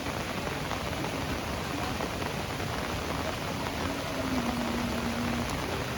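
Heavy rain falling, a steady dense hiss. About four seconds in, a faint held low tone sounds for about a second and a half under the rain.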